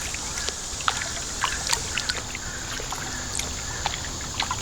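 Water trickling and lapping against a kayak drifting with the creek current: scattered small drips and splashes at irregular intervals over a steady high hiss.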